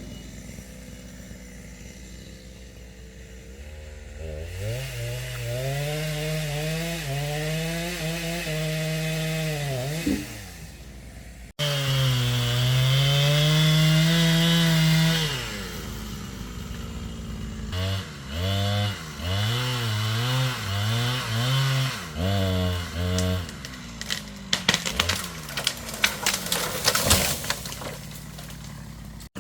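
Chainsaw engine revving up and down, with a string of short throttle bursts at about one a second in the second half and a stretch of sharp crackling near the end.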